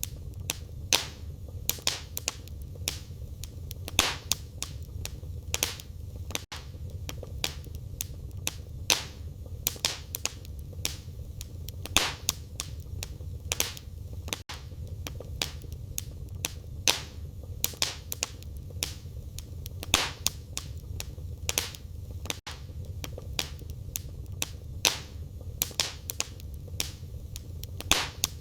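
Wood fire crackling in a fireplace: frequent sharp pops and snaps of burning firewood over a steady low rumble of the flames.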